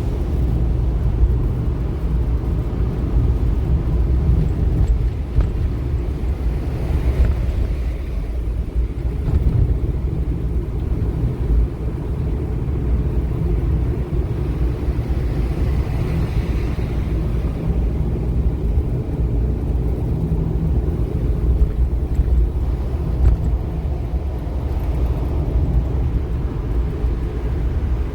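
Strong typhoon wind buffeting the microphone: a steady, loud low rumble.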